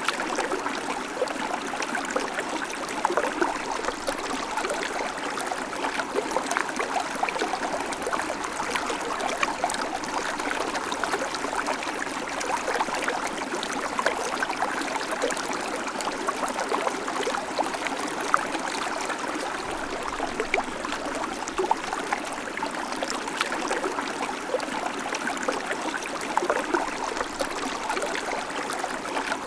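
Babbling creek: water running steadily over stones, a constant rushing with many small splashes and gurgles throughout.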